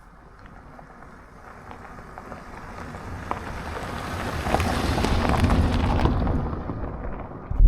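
Road and tyre noise of a vehicle driving past, swelling over about five seconds and then fading, followed near the end by a sudden low rumble.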